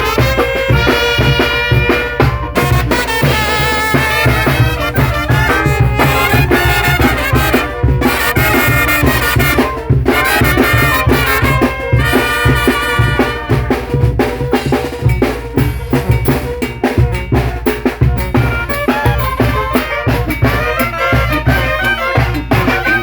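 Mexican brass band (banda) playing: trumpets and other brass carry the melody over drums and a steady pulsing bass beat.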